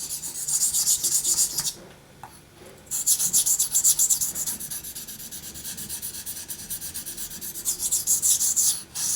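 Steel knife blade being stroked back and forth on a Naniwa Chosera waterstone, a fast run of gritty scraping strokes with a short pause about two seconds in. The edge near the tip is being ground at a raised angle to form a V edge.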